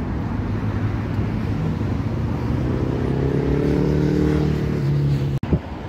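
Street traffic noise with a motor vehicle's engine hum swelling up close from about halfway through, then cutting off abruptly near the end.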